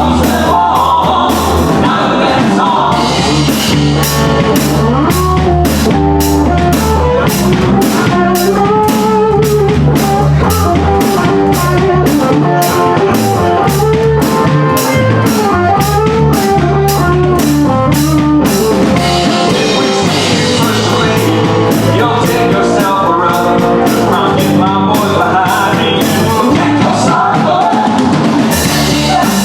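Live country band playing a song: drum kit keeping a steady beat under electric guitars, with a sung or played melody over it.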